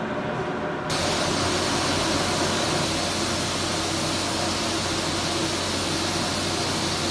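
Dixter 2807 pet blower-dryer running, a steady rush of air over a low motor hum. About a second in, the air noise gets louder and brighter, then holds steady.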